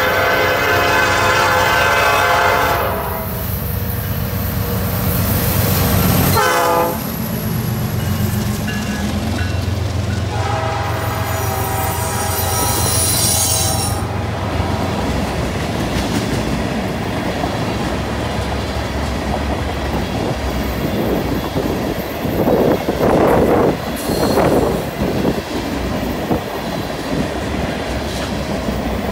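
Canadian National diesel-hauled freight train passing: the locomotive horn blows as it approaches, and its pitch drops sharply as the locomotives go by about six seconds in, over a low engine rumble. A second horn blast sounds from about 10 to 14 seconds in. Then tank cars and autoracks roll past with clickety-clack and brief wheel squeals on the curve.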